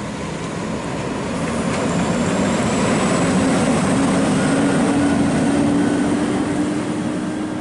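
Scania R580 truck with its V8 diesel driving past, hauling a heavy trailer load: engine and tyre noise swell to a peak mid-way and then fade as it moves off.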